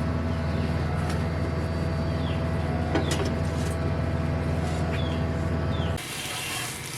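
A motor running with a steady low hum and a few light clicks, cut off abruptly about six seconds in.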